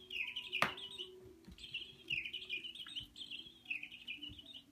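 Electronic bird-call toy on a cat's feather wand chirping, three trilling bird-like phrases about a second each, with a sharp click about half a second in.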